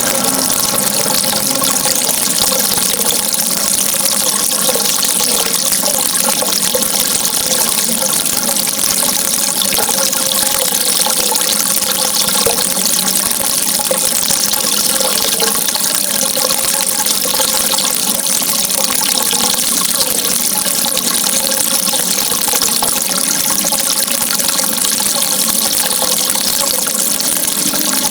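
Steady rushing water: a continuous, even noise with no breaks or changes.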